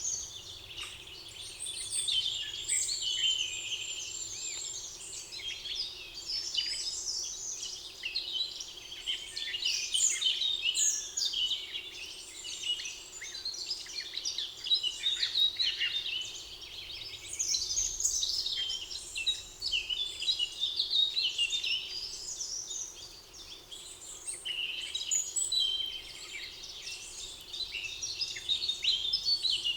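Many forest songbirds singing at once: a steady chorus of overlapping high chirps, trills and whistles, with brief lulls.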